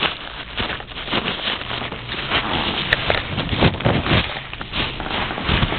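Handling noise: irregular rustling and light knocks as fireworks and their packaging are moved around by hand.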